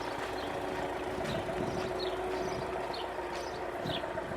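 Steady mechanical hum with a few held tones, and short faint high chirps every second or so.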